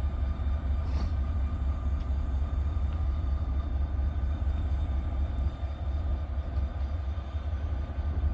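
Steady low rumble of an idling engine, with faint steady high tones above it.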